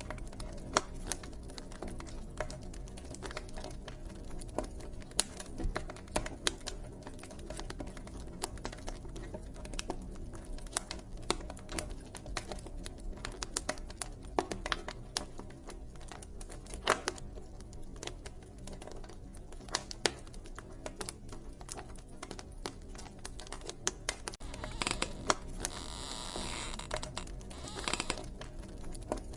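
Wood fire crackling, with irregular sharp pops and snaps over a low steady rumble. A hiss swells in for a few seconds near the end.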